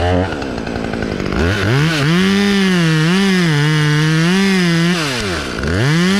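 Two-stroke chainsaw revving up about a second in and held at high speed, its pitch wavering under load as it cuts through an oak limb. It eases off near the end, then revs up and drops back once more.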